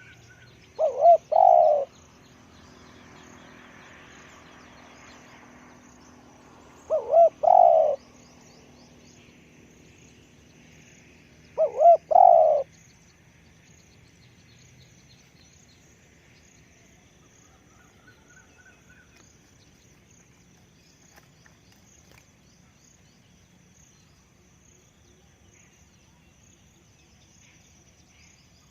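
Spotted dove cooing: three phrases in the first half, each two short notes and a longer one, none after that. Small birds chirp faintly all the while.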